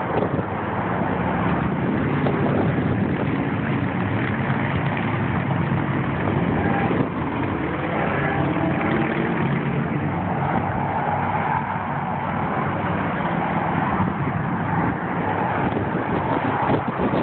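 Steady traffic noise of vehicles passing on a freeway, a continuous rushing sound with a low hum underneath.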